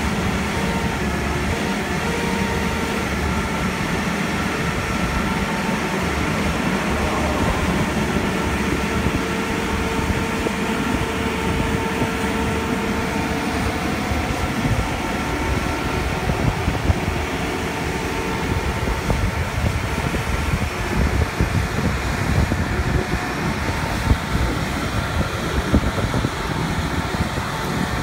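Caterpillar TL1255C telehandler's diesel engine running steadily, with a steady whine over the engine noise.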